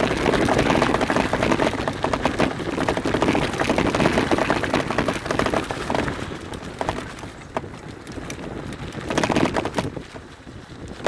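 Mountain bike moving over a rough dirt trail: tyres crunching on gravel and roots, and the bike rattling with many quick knocks. The noise is louder in the first half, eases after about six seconds, and swells again briefly near the end.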